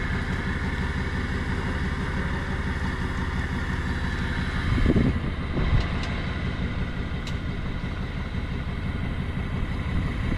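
Tow truck's engine running steadily while driving, with a brief swell about five seconds in and a couple of faint clicks later on.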